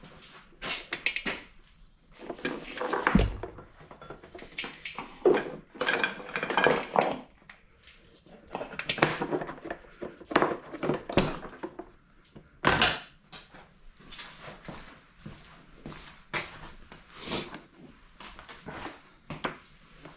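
Irregular knocks, clinks and scraping of tools and metal compressor parts being handled, with a sharp knock about 3 seconds in and another about 13 seconds in.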